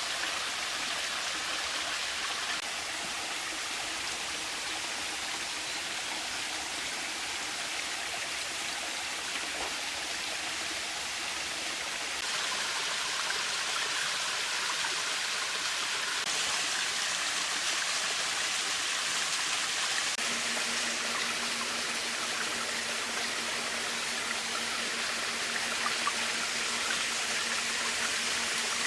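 A mountain stream running steadily, a little louder from about halfway through. A faint steady low hum joins about two-thirds of the way in.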